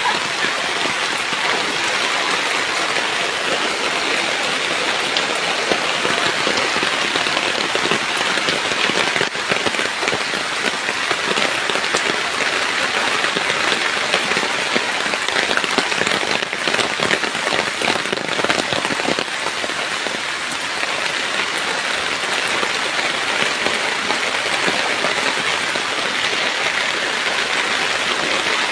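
Heavy rain falling steadily, a dense even hiss of drops on surfaces during monsoon flooding.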